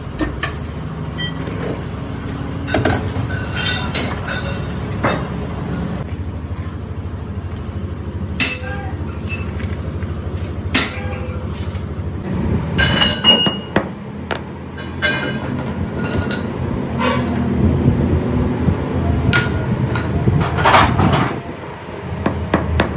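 Metal parts and tools clinking and tapping, some strikes ringing, over a steady low machine hum.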